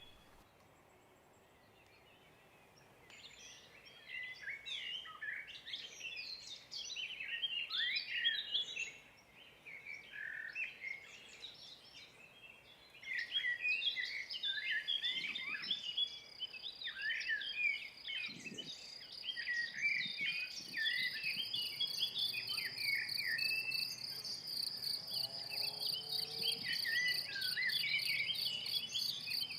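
Crickets and grasshoppers singing in a meadow. A steady, pulsing high trill starts about 13 seconds in and keeps going, with a fast, very high pulsing added later. Before and alongside it, from about three seconds in, small birds chirp and sing in quick, varied notes.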